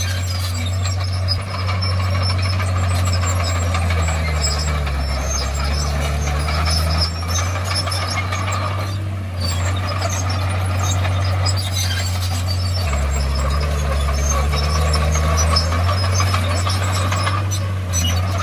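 Komatsu D51PX bulldozer's diesel engine running steadily. Its note drops lower twice, about four seconds in and again around thirteen seconds, as if the engine is pulled down under load.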